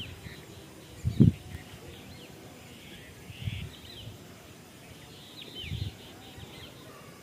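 Small birds chirping on and off in the trees, short high calls scattered through the whole stretch. Three low, muffled bumps come and go, the loudest about a second in.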